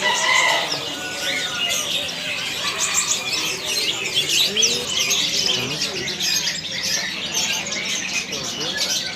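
Many caged songbirds chirping and calling at once: a dense chorus of short high chirps, with people's voices murmuring underneath.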